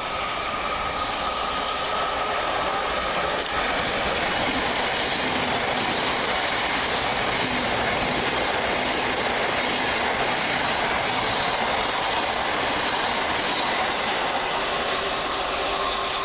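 Thameslink Class 700 electric multiple unit passing through the station without stopping: a steady rush of steel wheels on the rails with a faint whine, holding at much the same loudness throughout.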